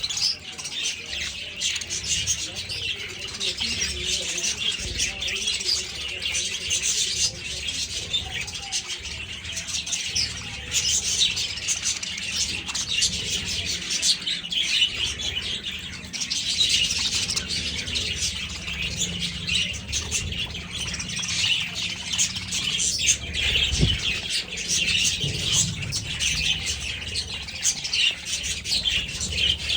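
A large flock of budgerigars chirping and chattering continuously, many birds at once, with wings flapping now and then.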